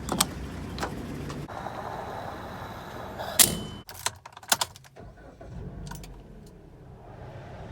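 Clicks and knocks of things being handled in a car, over a low steady rumble, with the loudest knocks in a cluster about halfway through.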